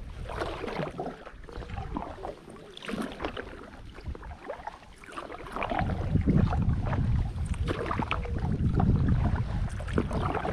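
Kayak paddle strokes in the water: uneven splashes and drips as the blades dip and lift. From about six seconds in, a low rumble of wind on the microphone joins them.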